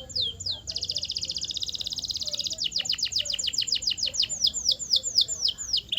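Canary singing a varied song: a few falling swept notes, then about a second in a fast rolling trill, then a run of falling swept notes that slows from rapid to about three a second.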